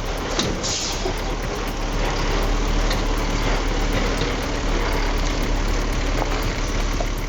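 Truck engine running steadily with a deep, even hum.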